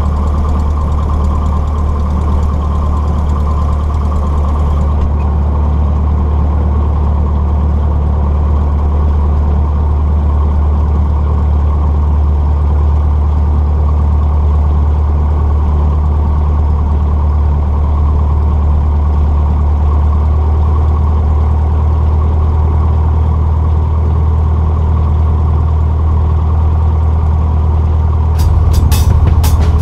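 Cessna 150's four-cylinder Continental O-200 engine and propeller droning steadily as heard inside the cockpit. A quick run of clicks comes in near the end.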